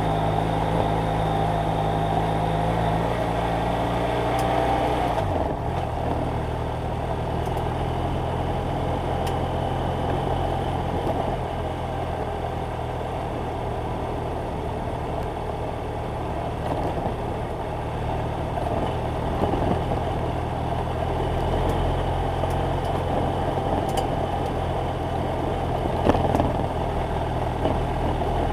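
BMW F800GS Adventure motorcycle's parallel-twin engine running steadily. Its note drops about five seconds in and then holds at the lower pitch.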